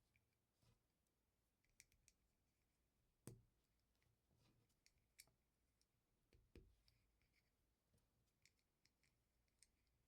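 Faint, sparse clicks and taps of small LEGO pieces being handled and snapped together, with two louder snaps a few seconds apart.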